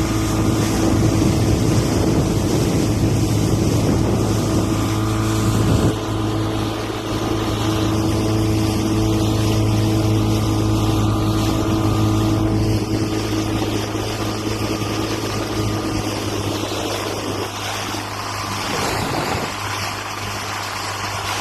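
Motorboat engine running steadily with a constant low hum, easing slightly about six seconds in and again near the end.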